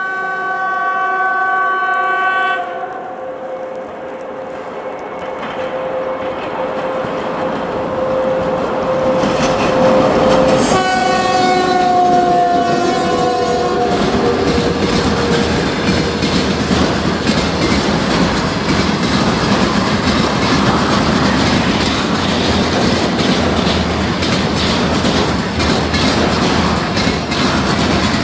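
VL80S electric locomotive's air horn sounds twice: a chord of about two and a half seconds at the start, then a second blast of about three seconds around ten seconds later that dips slightly in pitch as the locomotive passes. A loaded container freight train then rolls by, its wheels rumbling and clattering steadily.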